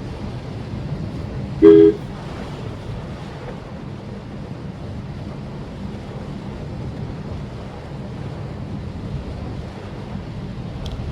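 Steady road and rain noise of a car driving on a wet road, heard from inside, with one short, loud two-tone car horn honk about two seconds in.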